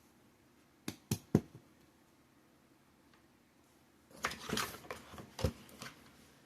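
Mini greenhouse frame parts knocking and clicking as they are handled and fitted together: three sharp knocks about a second in, then a rattling cluster of knocks about four seconds in.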